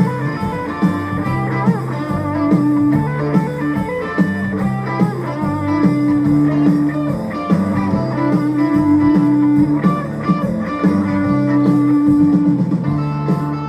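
A live rock band playing an instrumental passage between sung lines, with electric guitar to the fore over a steady beat.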